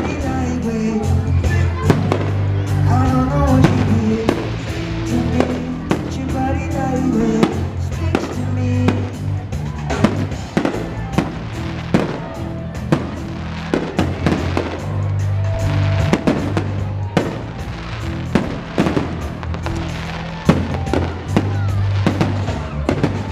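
Fireworks going off in an irregular string of sharp bangs and crackles, over loud music with a heavy, steady bass line.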